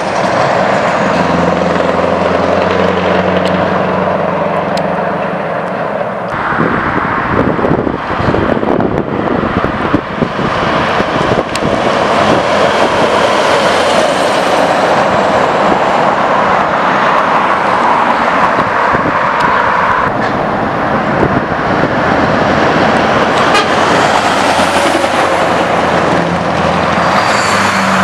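Scania R620's V8 diesel running loudly through a straight-pipe exhaust. It holds a steady low note for the first few seconds and again near the end, and in between the note breaks into a rough, noisy drone as the engine works harder.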